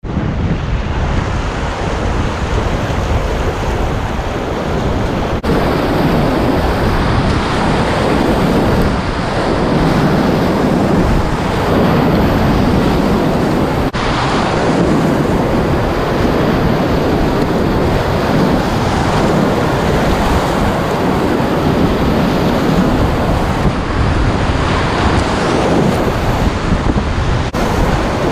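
Whitewater rapids rushing, a loud steady roar of churning river water.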